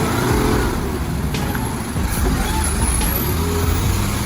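Heavy truck engine running steadily under load, a continuous low rumble.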